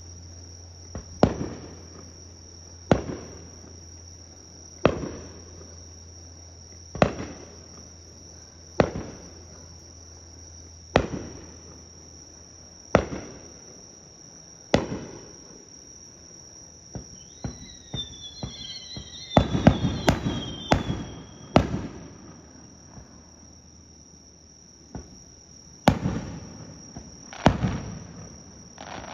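Aerial fireworks shells bursting one after another, a sharp bang with an echoing tail about every two seconds, then a denser run of bangs and crackles past the middle. A steady high insect chirring runs underneath.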